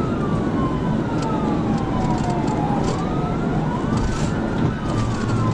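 Police cruiser siren on a slow wail, its pitch sliding down and back up over a few seconds, over heavy road and engine noise during a high-speed pursuit.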